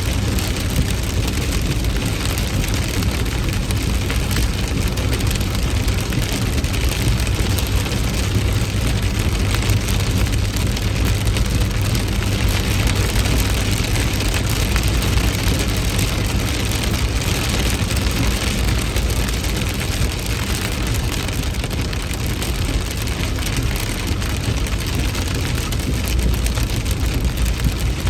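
Heavy rain falling steadily, an even hiss of rain on surfaces with a constant low rumble underneath.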